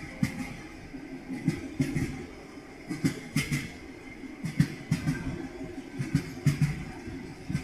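Railway carriage wheels clattering over rail joints: irregular clusters of knocks every second or two over a steady low rumble.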